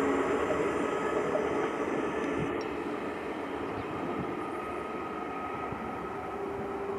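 KTX-Sancheon high-speed train pulling away into a tunnel: a steady rushing running noise with a faint hum, fading slowly as it recedes.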